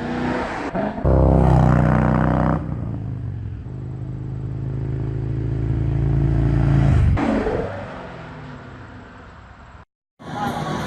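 Motorcycle engine revving hard through a burnout, the rear tyre spinning in place. The revs jump about a second in, the pitch climbs steadily for several seconds, and the engine drops off about seven seconds in.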